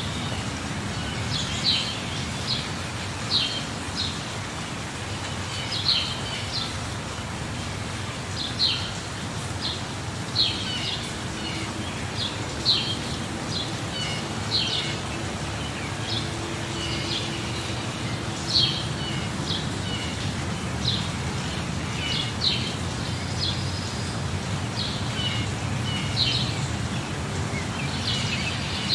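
Small birds chirping in short sharp calls every second or two over a steady rush of running water.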